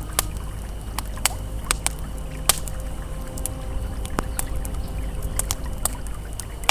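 Campfire crackling, with sharp irregular pops throughout, over the steady rush of a flowing river. Faint sustained ambient tones hum underneath.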